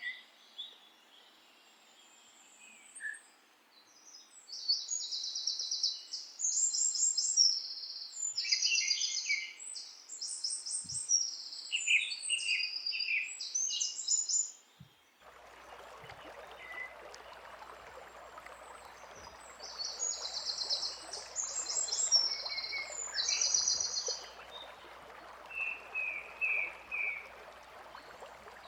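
Songbirds singing in short, rapidly trilled phrases, one after another, over a faint hiss that gets abruptly louder about halfway through.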